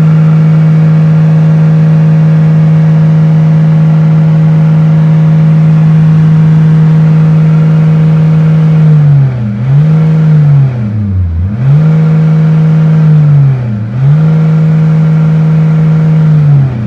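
Nissan Navara D40 engine revved with the truck standing still, held steady at high revs near full throttle, then dipping in pitch and picking up again about four times in the second half as the throttle is eased and reapplied. This tests the response of a newly replaced throttle body and accelerator pedal sensor.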